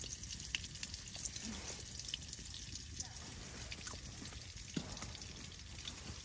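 Rain dripping and tapping on a tent: scattered, irregular light ticks over a low steady hiss.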